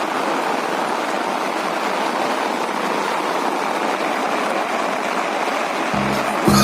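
Heavy rain falling in a steady hiss, with music coming back in near the end.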